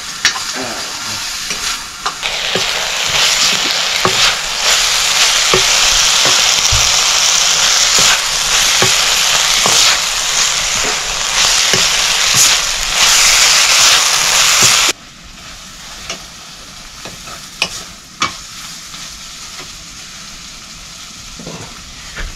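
Potatoes with spice powders sizzling in hot oil while a spoon stirs and scrapes the pan, with scattered clicks. The sizzle swells about two seconds in and cuts off suddenly about two-thirds of the way through, leaving quieter stirring clicks.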